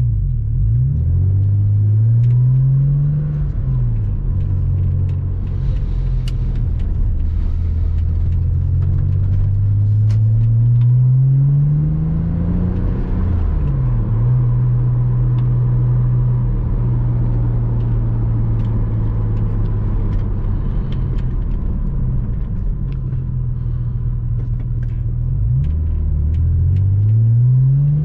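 Porsche Boxster 986's flat-six engine pulling a car through its gears. The pitch rises as it accelerates and drops back at each shift, then holds steady at a cruise in the middle before climbing again near the end, over road noise.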